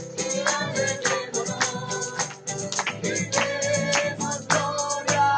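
Live band music with a steady beat and tambourine, accompanying a group singing a Spanish-language praise chorus, here between sung lines.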